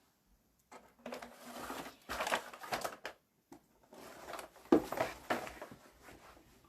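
Rustling and clattering noises in two irregular stretches, starting about a second in and again about three and a half seconds in.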